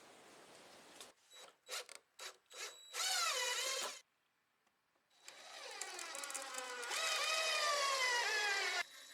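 A small electric power tool's motor whining in two runs, its pitch sliding down as it comes under load. Before it there are a few short clicks and scrapes.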